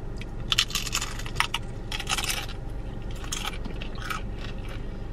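Tortilla chips being bitten and chewed close to the microphone: irregular bursts of crisp crunching, with the loudest crunches about half a second and two seconds in.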